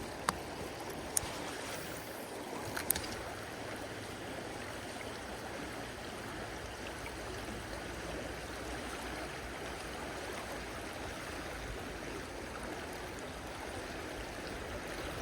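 Creek water running steadily, with three short sharp clicks in the first three seconds.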